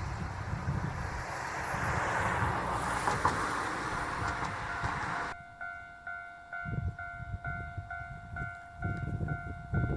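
A train passing close, a loud even rushing and rumbling for about five seconds, cut off abruptly. After the cut comes a steady ding repeating about twice a second, with irregular low rumbles.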